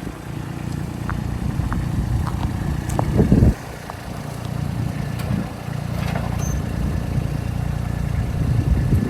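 An engine idling steadily, with scattered light clicks and knocks and a brief louder low rumble about three seconds in.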